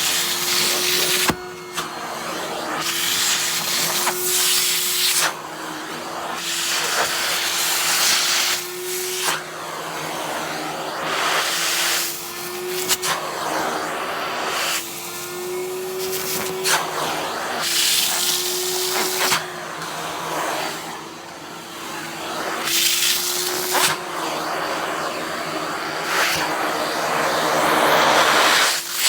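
Henry cylinder vacuum cleaner running, its motor a steady hum that wavers slightly in pitch. The rushing suction noise swells and fades every second or two as the nozzle is worked over a padded down jacket.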